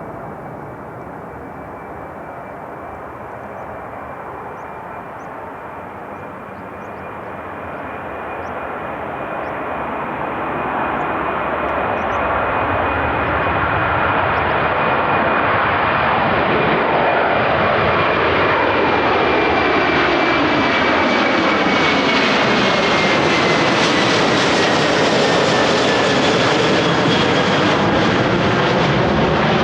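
Jet airliner's engines growing louder as it approaches and passes close overhead, a steady rushing roar with a high fan whine that slowly falls in pitch as it goes by.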